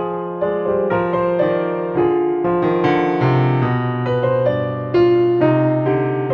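Slow, gentle solo piano music: soft melody notes over held low bass notes, with sustain.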